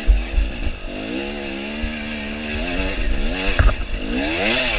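Dirt bike engine revving hard, its pitch rising and falling as the rider works the throttle, with two sharp climbs in revs in the second half. Low rumble and knocks run underneath.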